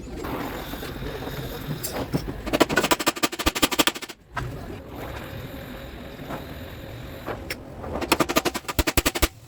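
Pneumatic impact wrench hammering in two short bursts of rapid blows, about ten a second, the second one near the end, over a steady low hum.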